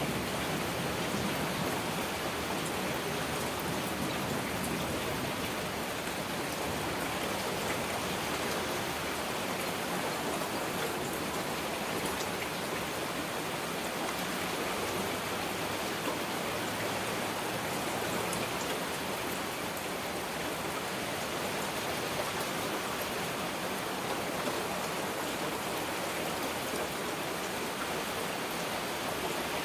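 Heavy rain falling steadily: a dense, even hiss of rain with single drop hits scattered through it.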